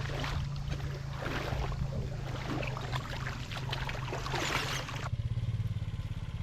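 A small engine running steadily, with irregular clattering and hiss over it that stops about five seconds in.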